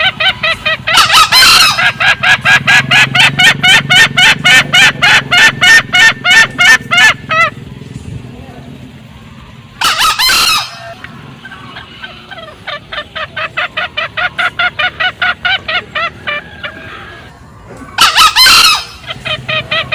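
Green junglefowl calling: a male gives three short, harsh crows, about a second in, mid-way and near the end. Between them come long runs of fast repeated cackling notes, about five a second, that fade and stop.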